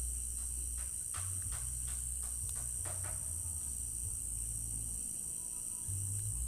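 A steady, high-pitched chorus of crickets trilling, over a low hum. A quick run of about ten short clicks falls in the first three seconds.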